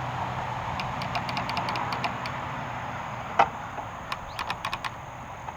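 Steady rain hissing, with scattered drops ticking sharply on hard surfaces and one louder knock a little over three seconds in.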